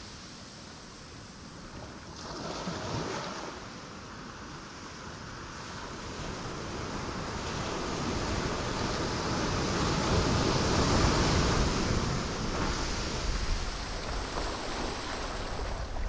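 Sea waves breaking on rocks: a steady wash of surf, with a small surge about two seconds in and a larger wave building to a crash in the middle that then eases off.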